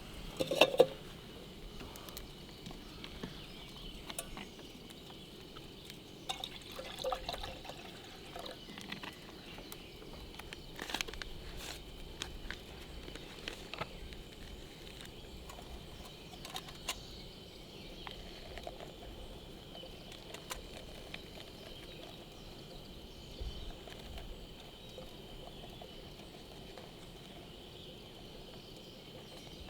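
Insects chirring steadily in a forest campsite, with scattered clicks and knocks, the loudest a short clatter about a second in.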